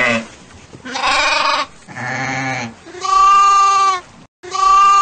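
Sheep bleating: four bleats in a row, the last two longer, steadier and louder.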